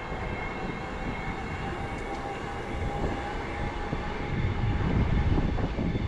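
Wind rushing over the microphone and tyre noise from a moving e-bike, with a faint steady whine above it; the low rumble swells a little near the end.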